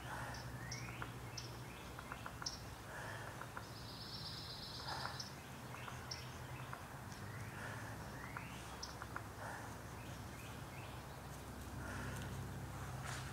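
Wild birds chirping and calling: repeated short high chirps, with a buzzy trill about four seconds in, over a steady low hum.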